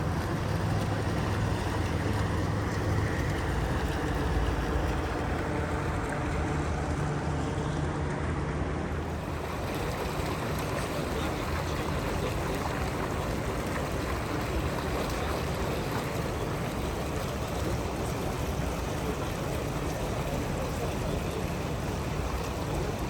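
Steady rushing outdoor background noise, with a low hum over roughly the first ten seconds.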